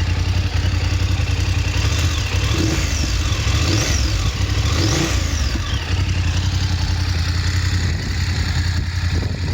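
BMW F850 GS's parallel-twin engine idling, with three quick throttle blips in the middle, each rising and falling in pitch, then settling back to a steady idle.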